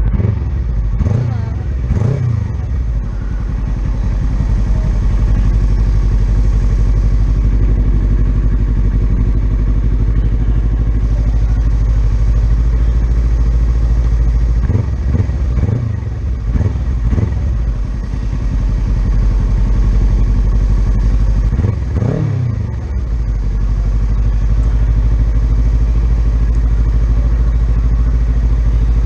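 Racing motorcycle engine running hard under heavy wind rumble, its revs rising and dropping in quick swoops a few times as it shifts gear or brakes for corners.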